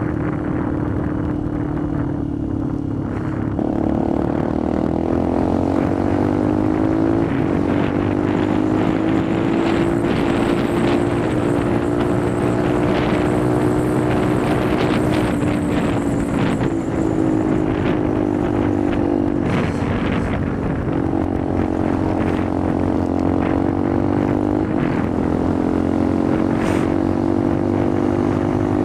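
Benelli TNT 125's single-cylinder four-stroke engine running under way, heard from the rider's position, its note rising and falling with the throttle. The pitch steps up a few seconds in, sags in the middle and climbs again toward the end.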